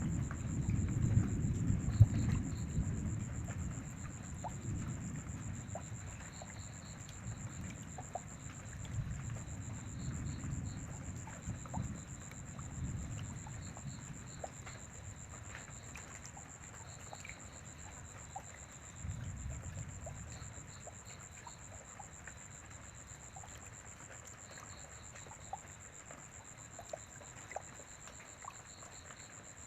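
Light rain with scattered drips, while low rolling thunder rumbles and dies away over the first few seconds, swelling briefly twice more before fading out.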